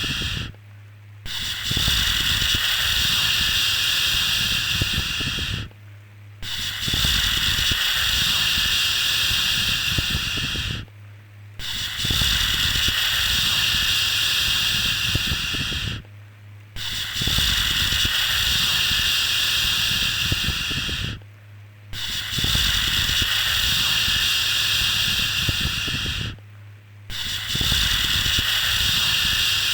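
A long, even 'shhh' shushing sound, repeated about every five seconds with a short pause between each shush, used to soothe a baby to sleep. A faint low hum carries on underneath, including during the pauses.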